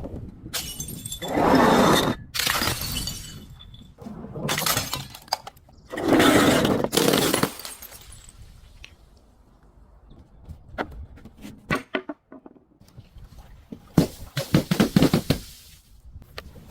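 Glass bottles breaking and shattering: several crashes in the first half, then scattered small cracks, and a quick run of sharp crackles near the end as glass is crunched.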